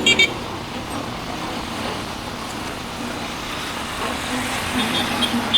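Road traffic running steadily, with a few short high beeps right at the start and again near the end.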